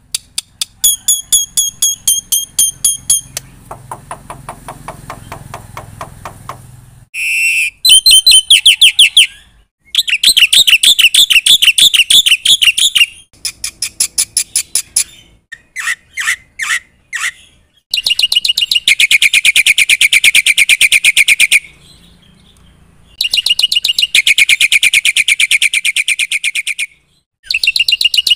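Black-winged starling (jalak putih) singing loudly in rapid trills and fast chattering runs of repeated notes, in phrases of a few seconds broken by short pauses.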